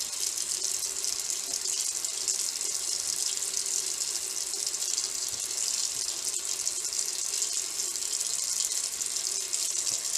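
Cold water tap running steadily into a bathroom sink, for a cold face rinse after a shave.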